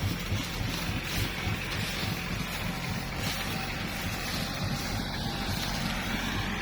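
Kubota tractor's diesel engine running steadily under load while pulling stuck farm machinery out of slippery mud.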